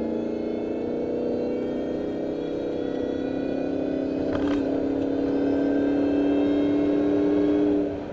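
Ford SVT Lightning's supercharged 5.4-litre V8 under acceleration, engine and Eaton supercharger whine rising slowly in pitch and getting a little louder toward the end. The whine is made louder by the supercharger's filled silencer ports and light porting.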